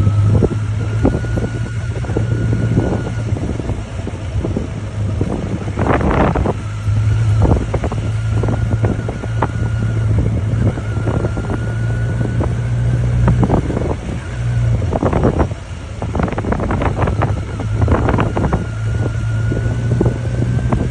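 Motorcycle engine running at a steady cruising speed, with wind buffeting the microphone in gusts.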